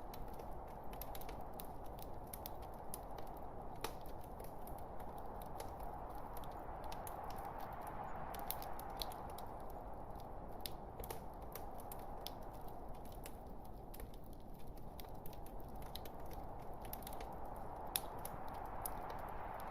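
Wood fire burning in a fireplace: a steady low rush of flames with irregular sharp crackles and pops from the burning logs, one pop standing out near the end.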